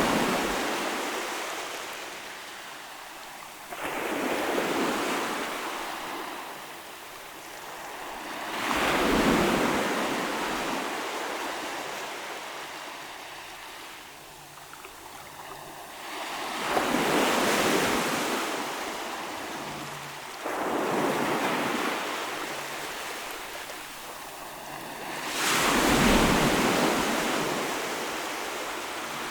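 Ocean waves breaking and washing onto the shore, each surge swelling and then fading away, about six in a row.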